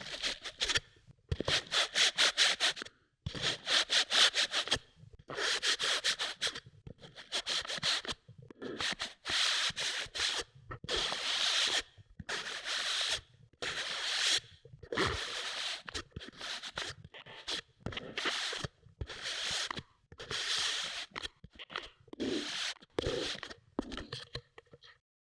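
Kinetic sand being cut with a knife. Each slice is a grainy crunching scrape of about a second, coming roughly every second and a half with short pauses between, and the slicing stops just before the end.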